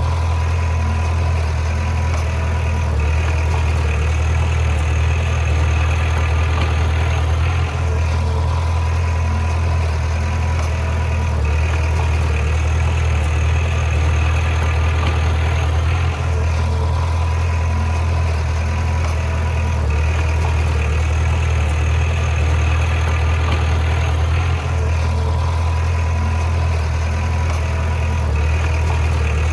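Bulldozer's diesel engine running steadily with a deep low drone, the sound shifting briefly about every eight seconds.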